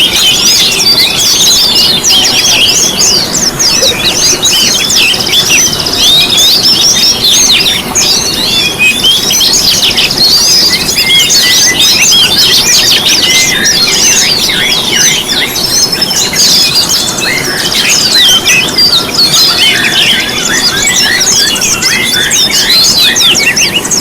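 Dense, unbroken chorus of many small songbirds chirping, trilling and whistling over one another, a compiled bird-lure track of songs such as oriental white-eye, magpie robin, sunbird, canary, shama and green leafbird.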